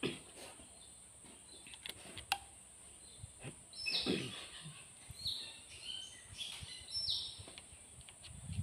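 A few short, high, falling bird chirps over light clicks of hand tools on the engine's valve gear, with a steady faint high-pitched whine behind.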